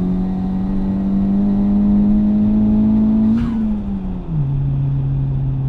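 Tuned Honda Civic Type R (FL5) 2.0-litre turbocharged four-cylinder with a larger RV6 660 turbo and MXP exhaust, valve open, pulling with revs climbing slowly. About three and a half seconds in there is a short high burst with a falling tone as the revs drop; the engine then settles at a steady lower pitch.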